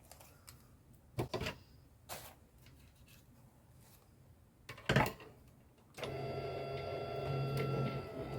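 Small electric die-cutting machine's motor running steadily for a few seconds as it feeds a die and paper through, starting about six seconds in. Before it come a few sharp knocks of handling, the loudest about five seconds in.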